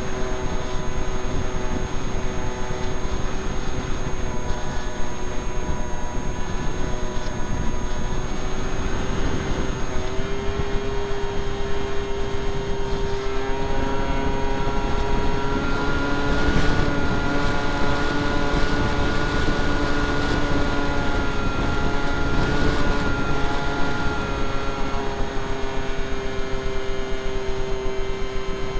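Brushless electric motor and 7x6 propeller of a Skyartec Skyfun RC plane, heard from a camera on the airframe: a steady whine under heavy wind noise. A second whine joins for about ten seconds midway.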